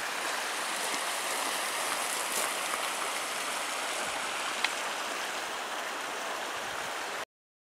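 Small mountain creek running at low flow: a steady rush of water over rocks. It cuts off suddenly near the end.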